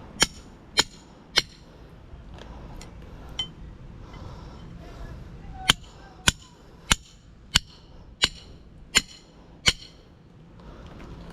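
Hammer striking metal on an electric motor being broken down, each blow a sharp ringing clang: three blows in the first second and a half, then after a pause a steady run of seven blows about two thirds of a second apart.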